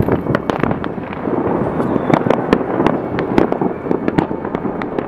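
Many fireworks and firecrackers going off at once across a city, a dense, continuous crackle of overlapping bangs and pops.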